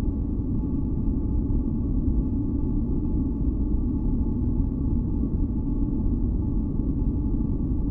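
Steady, deep rumbling noise for sleep and masking, weighted to the low end, with a few faint held tones humming above it; it does not change.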